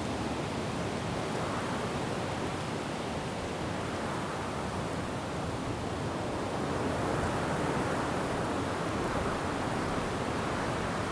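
Wind blowing through forest trees: a steady rushing of leaves and branches that swells slightly about halfway through.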